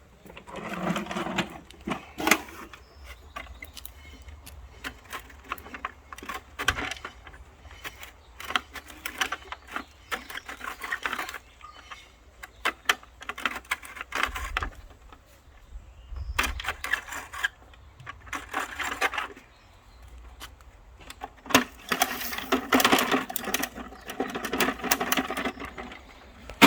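Garbage truck collecting yard waste: repeated clattering and knocks, with a low engine rumble underneath.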